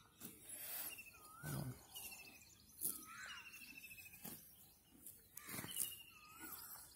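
A bird calls several times, each call a short rising-and-falling whistle paired with a rattling higher note. A few soft knocks sound between the calls.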